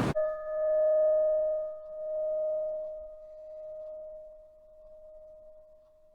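A single struck, bell-like metal tone ringing out and slowly fading, its loudness pulsing as it dies away.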